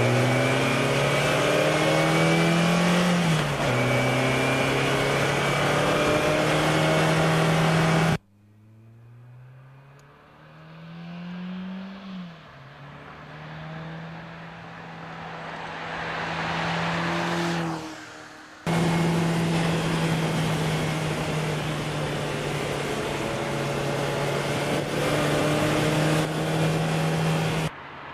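Lancia 037's supercharged four-cylinder engine pulling hard, heard close up with its pitch climbing and then dropping sharply at two gear changes. After a cut it is heard from outside: faint at first, growing louder as the car approaches and passes about two-thirds of the way in. After another cut it runs loud and fairly steady again.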